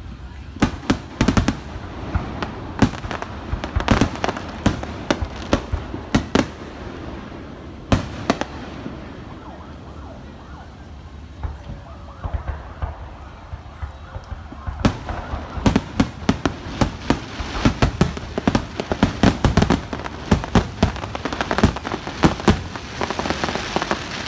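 Aerial fireworks bursting overhead: a run of sharp bangs that thins out for a few seconds in the middle, then picks up again into a fast barrage of bangs over the second half.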